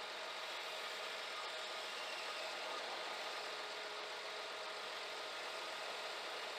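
Scania G410 truck's engine running steadily, an even, unchanging hum with a faint steady whine.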